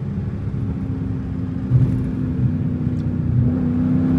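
Straight-piped Dodge Challenger Scat Pack's 6.4-litre HEMI V8 exhaust running at a steady cruise: a low rumble with a steady drone, growing a little louder near the end.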